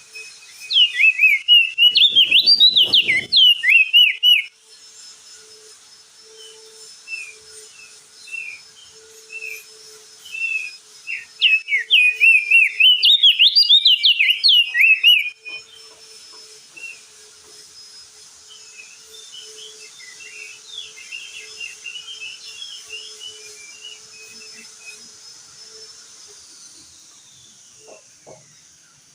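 Crested white-eye (opior jambul) singing: two loud bursts of rapid, high, twittering warble about ten seconds apart, with softer scattered chirps between, over a steady high hiss.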